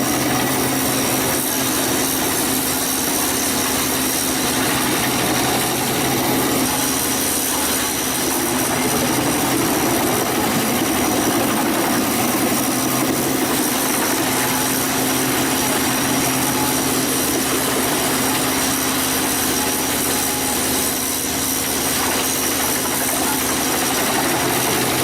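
Wood chipper's engine running steadily at an even speed, with no change in load.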